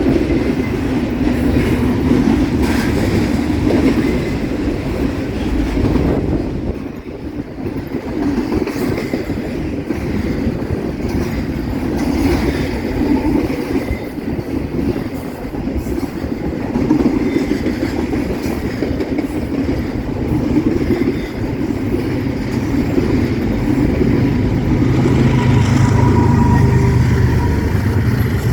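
Long freight train of container cars rolling past, a steady rumble of wheels on rail with uneven clatter. A low drone grows louder over the last few seconds.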